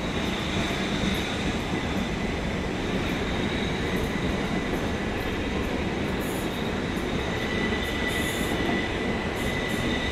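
Southern Class 377 Electrostar electric multiple unit running over curved junction track: a steady rumble of wheels on rail with a thin high wheel squeal, which grows into a clearer, sharper squeal from about three-quarters of the way in.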